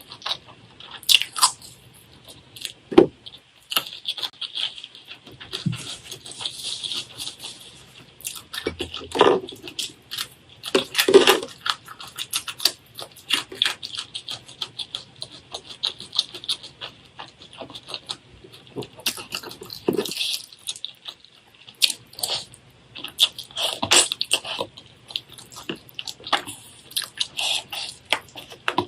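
Close-up eating sounds: chewing, with irregular crunches, wet smacks and clicks of the mouth.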